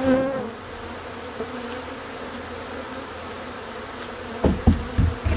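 Honey bee swarm buzzing steadily, with a louder pitched hum right at the start. A few low thumps come near the end.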